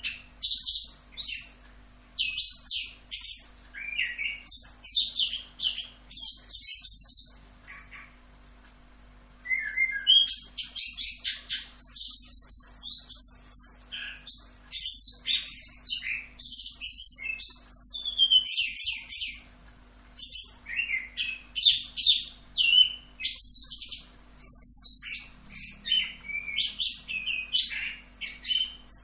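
Chestnut-capped thrush (anis kembang) singing a long, fast run of varied high warbling and chirping phrases, with one short pause about eight seconds in.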